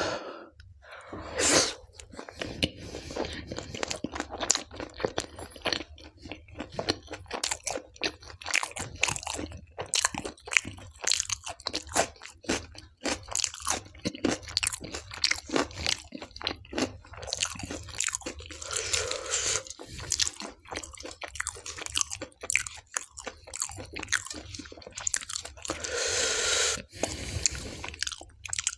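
A man chewing mouthfuls of charred tandoori naan dipped in soya-bean dal makhni: a dense, irregular run of crunches and mouth clicks.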